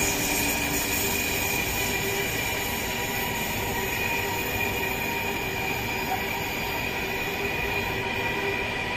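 Freight train of rail tank wagons rolling past: a steady noise of wheels on rails, with a thin, steady high whine over it.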